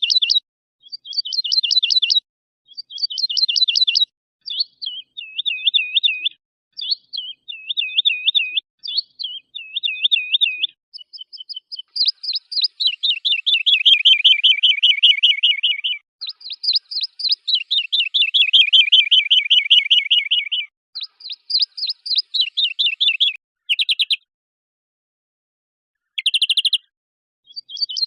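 Recorded songbird song: a string of fast trilled and warbled phrases, high-pitched, each about a second long and separated by clean silent gaps, with two long rolling trills of several seconds each in the middle.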